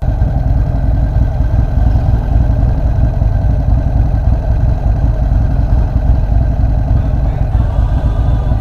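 Motorcycle engine idling right next to a bike-mounted camera: a loud, steady low rumble.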